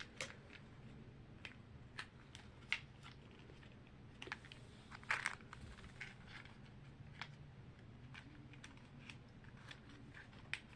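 Faint, scattered clicks, taps and crinkles of a small cardboard toy box and its plastic packaging being opened carefully by hand.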